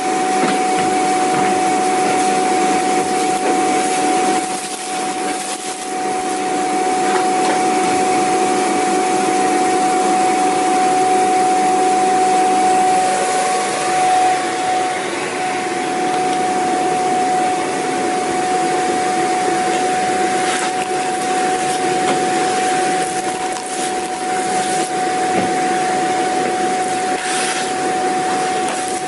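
Vacuum cleaner running continuously: a steady high motor whine over a dense rushing hiss of airflow.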